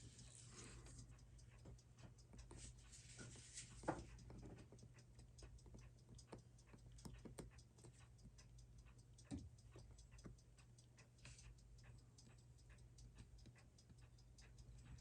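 Faint, fast, even ticking of a Seiko 6R15 automatic watch movement running, about six beats a second, with a few louder clicks, one about four seconds in and another just past nine seconds.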